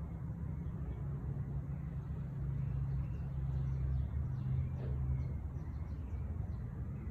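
Low engine rumble of a passing motor vehicle, swelling in the middle and easing off after about five seconds, with faint short bird chirps high above it.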